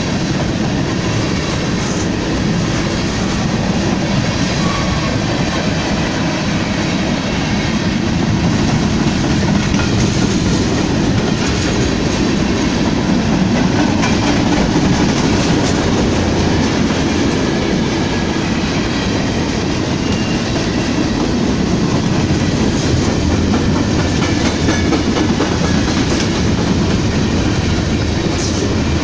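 A train rolling steadily past at close range, its wheels clacking over the rail joints in a steady, loud rumble.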